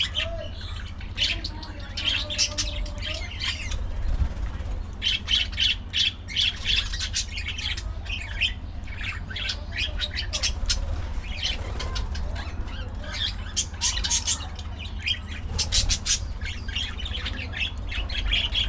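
A flock of budgerigars chirping and chattering, many short calls overlapping, with a brief lull about four seconds in. A steady low hum runs underneath.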